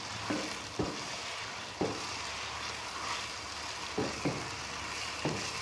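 Boneless chicken pieces in masala sizzling as they are stir-fried in a wok, with a wooden spoon scraping and knocking against the pan a handful of times.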